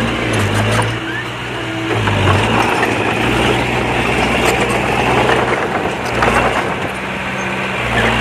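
Diesel engine of heavy earthmoving machinery running, its pitch shifting a few times as the load changes, over a steady rough noise of work.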